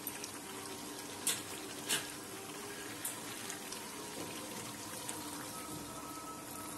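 Chicken curry sizzling steadily in oil in a wok after frying down, with a few light clicks from utensils.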